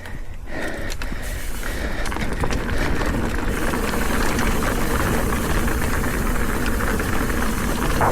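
Mountain bike rolling fast down a rough, rocky trail: tyre noise and the bike rattling over rocks, with wind on the microphone, growing louder over the first few seconds as speed builds.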